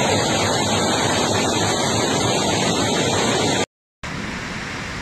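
Heavy rain pouring down, a dense steady hiss. It cuts off abruptly about three and a half seconds in, and after a brief silence a quieter steady rush of water takes over.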